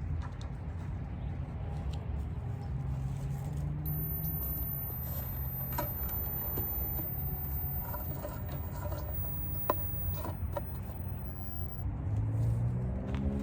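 Steady rumble of road traffic, with a vehicle's engine rising in pitch near the end. Scattered light clicks and scrapes sound over it.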